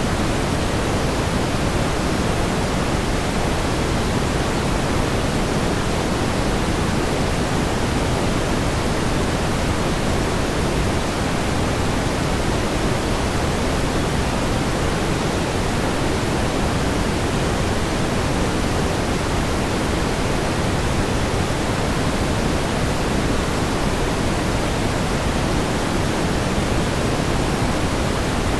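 Steady pink noise: an even, unchanging hiss weighted toward the low end, with no swells or breaks.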